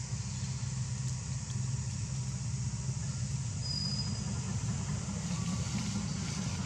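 Steady low engine-like rumble, as of a motor vehicle idling nearby, with a brief high whistle-like tone about four seconds in.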